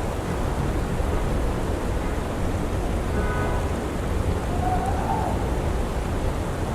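Amtrak Empire Service train passing close by, a steady loud rumble of wheels on rail.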